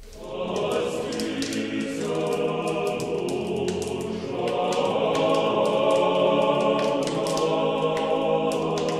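Choir singing in sustained harmony, coming in suddenly as softer instrumental music fades out.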